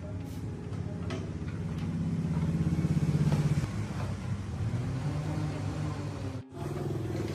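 An engine running, getting louder for a second or two around the middle as it is revved a little, with a brief break near the end before it carries on.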